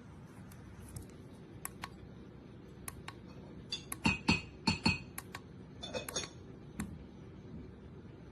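Hard objects being handled: a series of light clicks and clinks, with a cluster of louder clinking knocks about four to five seconds in, over a steady low hum.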